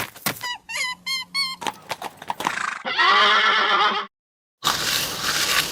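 Horse sounds: hooves clip-clopping, a few short calls, then a loud wavering whinny about three seconds in. It cuts out briefly and gives way to a steady rushing noise.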